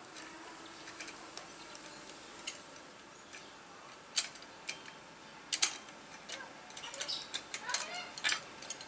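Scattered sharp clicks and taps, irregular and a few seconds apart at first, coming thicker near the end, over faint background voices.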